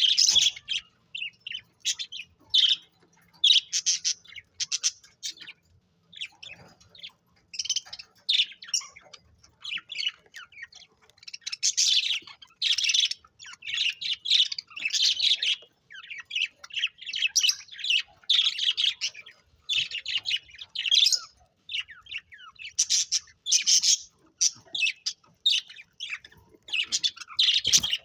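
Budgies chirping and chattering, a run of short, high, scratchy calls with brief gaps.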